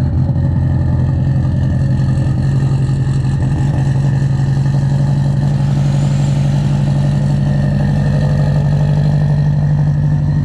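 Car engine running at a steady speed, a loud low hum with a rapid even pulse and no rise or fall in pitch.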